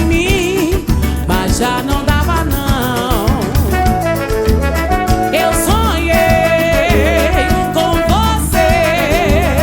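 Live samba band playing an instrumental passage: a wavering melody line over bass and percussion with a steady beat.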